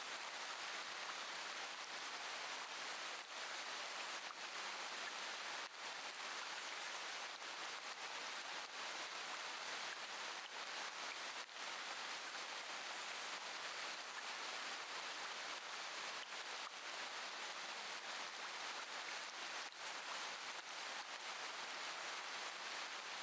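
Steady rain falling: an even hiss of rain with faint scattered drop ticks.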